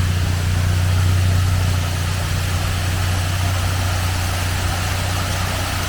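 Off-road 4x4's engine idling with a steady low hum, under the even rushing hiss of a rain-swollen waterfall.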